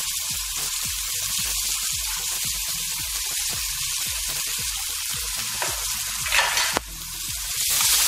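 Chopped carrots, corn and French beans stir-frying in hot oil in a frying pan: a steady sizzle, getting louder near the end as a spatula stirs them.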